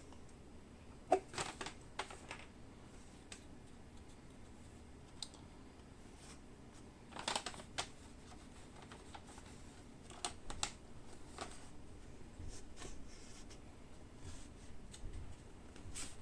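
Rolled sheets being handled and worked out of a cylindrical tube: scattered light clicks and rustles in a few short clusters, with quiet handling between.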